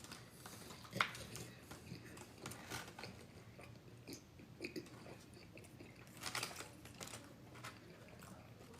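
A person chewing and biting food, quiet, with scattered small crunches and clicks. The sharpest click comes about a second in, and a short cluster of crunches comes around six seconds in.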